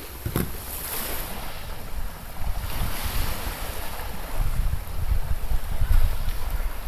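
Wind gusting on the microphone, rumbling hardest about two thirds of the way through, over the wash of small waves on a sandy beach.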